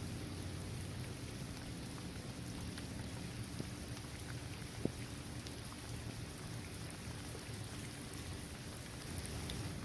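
Steady rain falling on a hard court surface, trees and grass, a dense patter with scattered individual drop ticks and one sharper drop about halfway through, over a low rumble.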